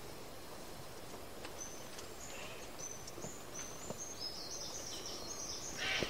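Quiet forest ambience with a bird calling: a run of short, thin, very high whistled notes at slightly different pitches, starting about a second and a half in and coming thicker near the end.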